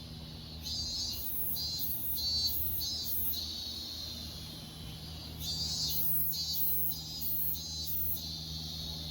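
Cicadas singing: a high rasping buzz that rises into runs of rapid pulses, about two a second, twice, over a steady low hum.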